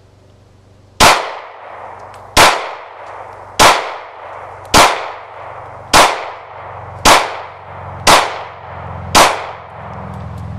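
Eight shots from a Glock 27 pistol in .40 S&W, fired about one a second. Each is a sharp crack with a short echoing tail.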